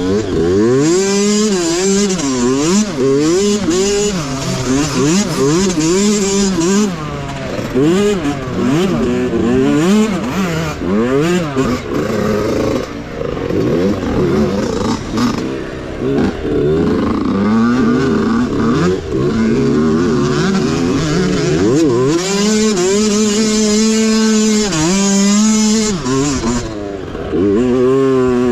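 Small mini bike engine running hard, its pitch rising and falling again and again as the throttle is opened and closed through the course.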